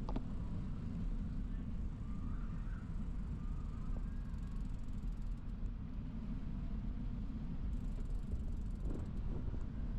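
Steady low rumble of wind and road noise picked up by a camera mounted on a moving bicycle, with a couple of short knocks, one right at the start and one about nine seconds in.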